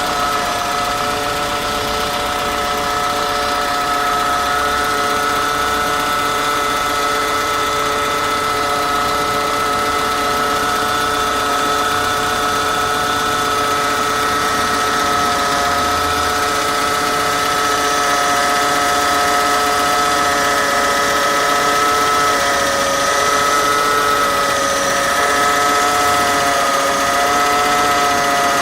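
Peugeot 206 1.1 petrol engine idling, with a steady whine from the power steering pump: an abnormal, unpleasant noise. The whine wavers slightly in pitch near the end.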